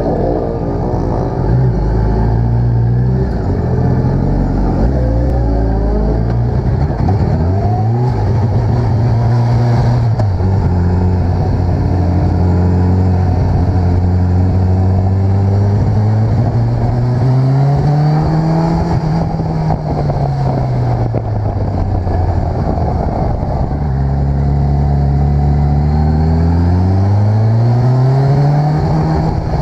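Vehicle engine running under way, its note climbing and dropping several times with speed and gear changes. The engine has the misfire that the recording was made to capture.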